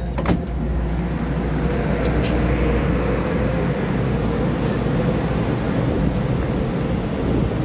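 A click as the electric commuter train's door opens, then the steady hum and rumble of electric commuter trains standing at the station platform, with a low drone.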